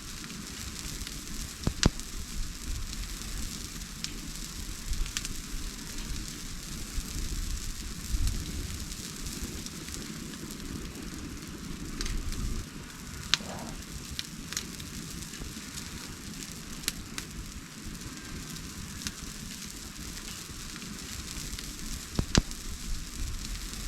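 Wood fire burning with a steady crackling hiss and a few sharp pops from the burning wood.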